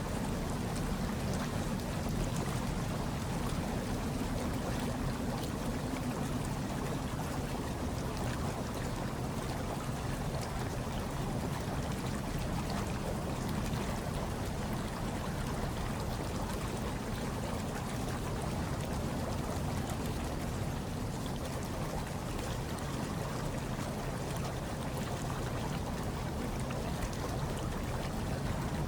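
Hot tub water churning and bubbling steadily, blended with a low, even hush of wind and snowstorm.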